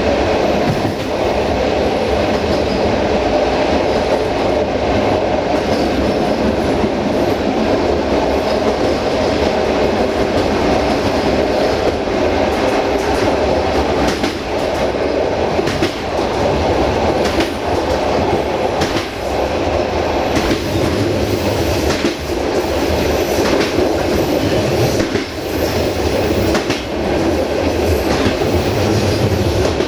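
Passenger train coach running along the line: a steady rumble of wheels on rail with irregular clacks as the wheels cross rail joints, more of them in the second half.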